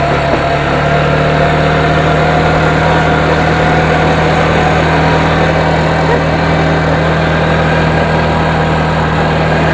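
A motor vehicle's engine running steadily at an even, unchanging pitch.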